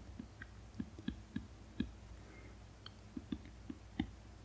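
Apple Pencil tip tapping and stroking on an iPad screen with a matte screen protector: about a dozen faint, irregular light clicks, with a short pause in the middle.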